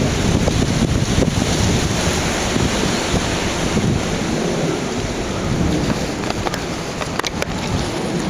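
Water of a garden stream rushing steadily, with wind buffeting the microphone and a few light clicks near the end.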